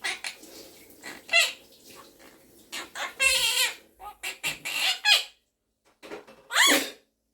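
Monk parakeet (Quaker parrot) chattering in a string of short squawks and pitched calls, with a longer call about three seconds in and a loud sweeping call near the end.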